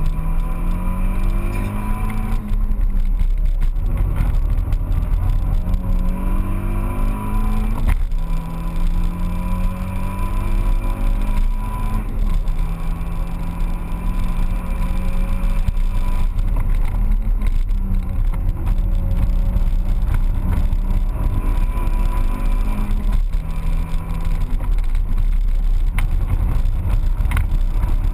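Car engine heard from inside the cabin, pulling hard through the gears: its pitch climbs steadily, then drops back several times as it shifts or lifts, over a constant low road and wind rumble.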